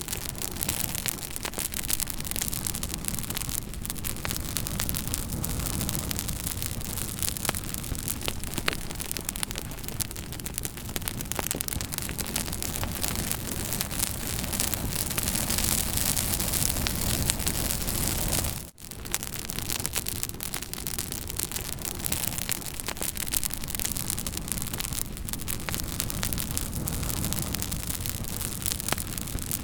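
Campfire burning: a steady rushing hiss of flames with many small sharp crackles and pops from the burning wood. The sound drops out for an instant about two-thirds of the way through.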